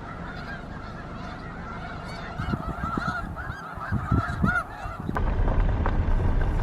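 A large flock of snow geese and Ross's geese calling, a dense chorus of overlapping honks, with wind buffeting the microphone. About five seconds in, the calling gives way abruptly to a louder, steady low rumble.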